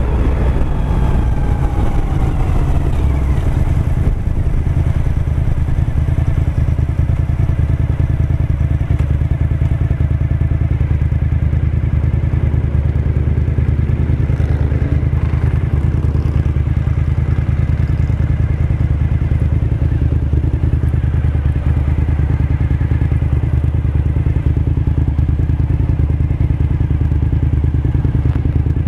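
2007 Suzuki SV1000S's 90-degree V-twin engine running under way; its note drops over the first three seconds, then holds steady.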